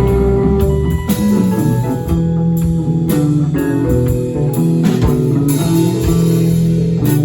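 Live band playing an instrumental jam: a guitar lead of shifting held notes over bass guitar and a drum kit.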